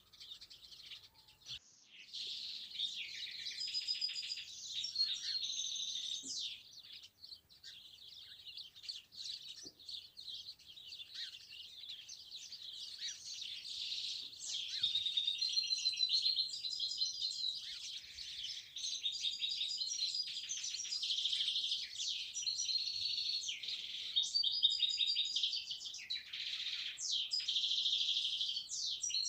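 Many small songbirds chirping and singing at once: a dense, overlapping chorus of rapid high chirps and short trills. It is thinner for the first second or two, then fills in and stays busy.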